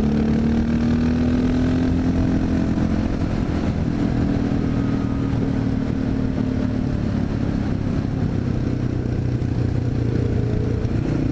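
Honda XR650L's single-cylinder engine running as the motorcycle rides along. Its pitch rises gently, dips about four seconds in, then holds steady.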